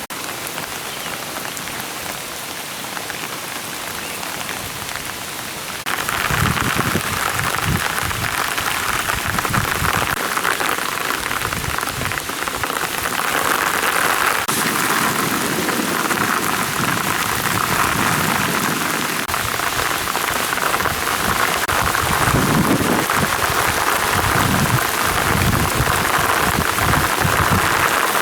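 Steady rain falling that turns suddenly heavier and louder about six seconds in, with low, irregular rumbles underneath.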